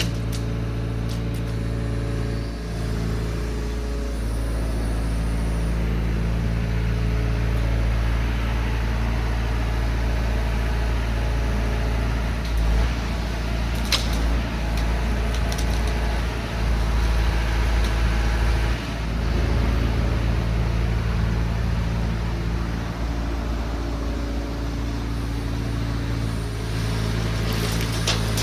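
1972 Chevrolet C50 dump truck's engine running steadily, a low even drone, with a single sharp click about halfway through.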